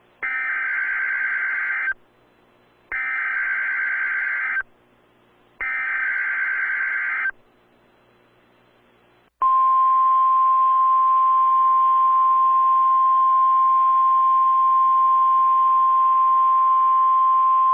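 NOAA Weather Radio Emergency Alert System activation: three short bursts of screeching SAME header data tones, each about a second and a half long. After a short pause comes the steady 1050 Hz weather radio warning tone, held for about nine seconds. It keys a tornado watch.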